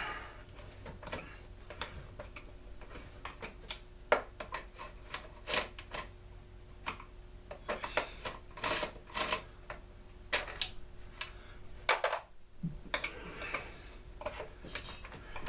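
Irregular clicks, taps and clatter of hand tools working on the plastic and metal parts of a Stihl BG 56 C leaf blower during teardown, over a faint steady hum.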